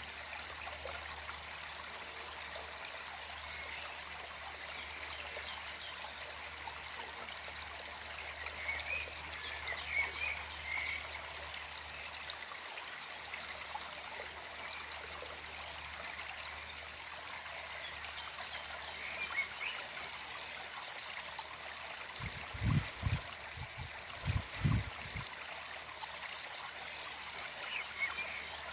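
Small forest stream flowing steadily, with a bird giving short high notes in quick threes every several seconds and a few chirps. A cluster of about five low dull thumps comes a little past twenty seconds in.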